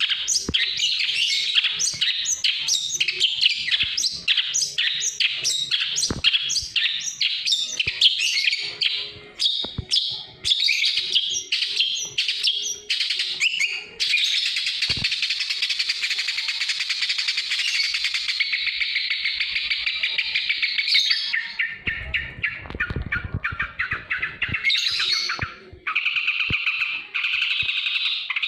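Birds chirping in quick, repeated high notes that turn into a dense, continuous chatter about halfway through. A short noisy break comes about three quarters of the way in, and then a different run of rapid calls.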